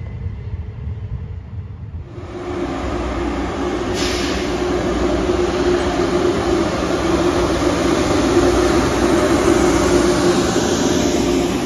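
Frecciarossa ETR500 high-speed train running alongside the platform, a loud steady rolling rumble with a steady hum. It comes in suddenly about two seconds in, after a quieter start.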